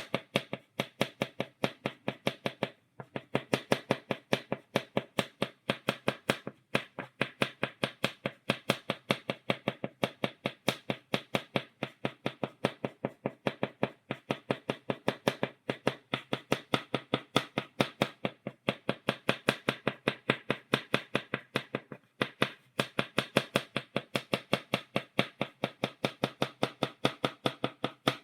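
Chalk tapped on a blackboard in stippling dots, rapid sharp taps about four or five a second, with a few brief pauses.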